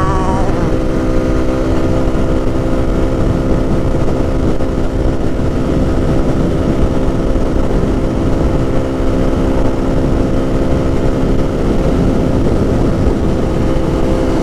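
Lifan KP motorcycle engine running at a steady highway cruise, its pitch holding constant, with heavy wind rumble on the helmet microphone.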